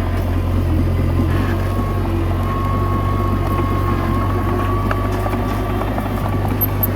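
Komatsu D21A bulldozer's diesel engine running steadily under work, with a faint thin whine through the middle few seconds.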